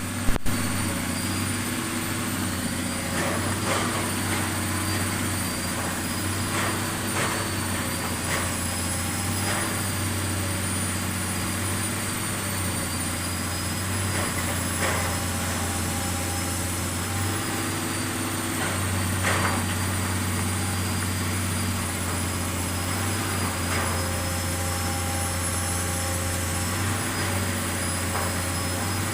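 Pile-driving machine's engine running with a steady low hum, with faint knocks every few seconds.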